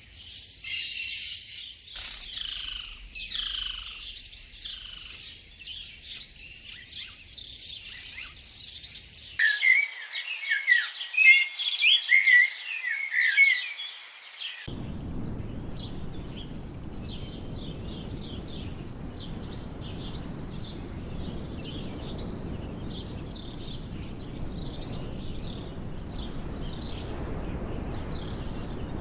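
Wild birds calling and singing in several overlapping voices, with sliding, whistled notes. About nine seconds in, the sound cuts to louder, rapid chirping calls, and about fifteen seconds in to a steady hiss with faint high chirps over it.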